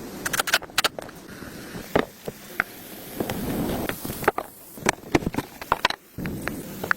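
Irregular light knocks and clicks over a scraping, rustling noise, as of objects being handled and worked.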